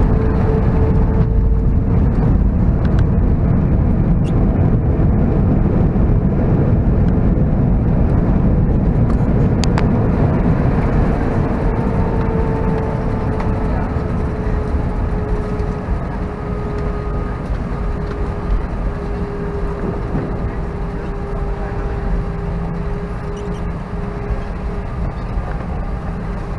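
Airbus A319 on its landing roll-out: loud rumble of the IAE V2500 jet engines and the wheels on the runway, with a steady engine tone that slowly sinks in pitch about halfway through as the noise eases off and the jet slows.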